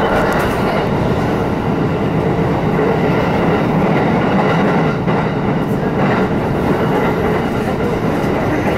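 Steady running noise of an electric train at speed, heard from inside the passenger car: wheels on rail and the car's running gear, with a few faint ticks.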